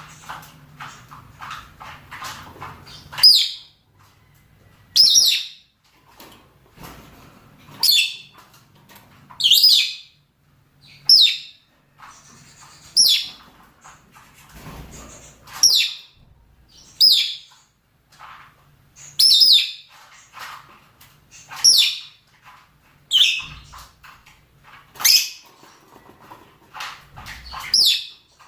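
Lovebirds (rosy-faced and Fischer's) giving mating calls: a loud, high-pitched call every second or two, about thirteen in all, with softer chattering between them.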